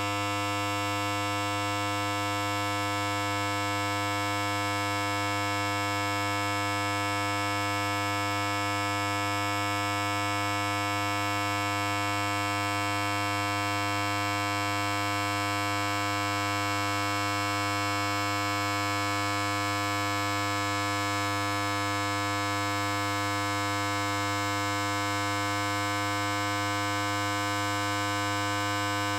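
Electric hair clipper running continuously: a steady, unchanging buzz with many evenly spaced overtones.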